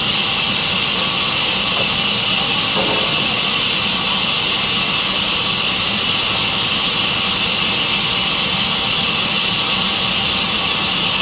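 Sawmill saw (aara machine) running steadily, a loud even hiss with no let-up.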